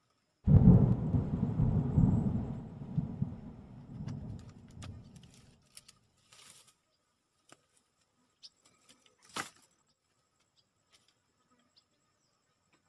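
A sudden loud low rumble that dies away over about five seconds, followed by scattered faint clicks.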